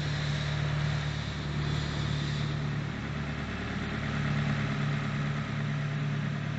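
Nissan SR20DET turbocharged four-cylinder engine idling steadily, on its first run with a newly fitted Haltech Platinum Sport 2000 ECU.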